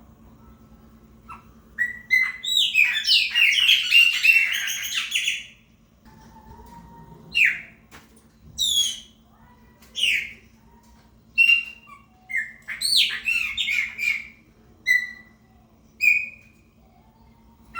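Chopi blackbird singing: a rapid, jumbled phrase of whistles and chatter starting about two seconds in and lasting some three seconds, then a run of separate loud, falling whistled notes about a second apart, with one more short burst of song a little past the middle.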